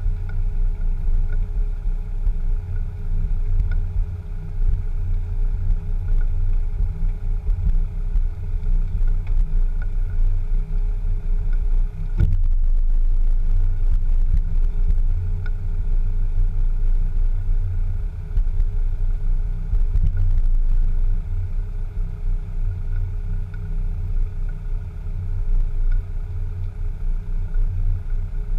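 Land Rover Discovery 2 engine running with a steady low rumble, heard close to the body sill. There is a single short knock about twelve seconds in.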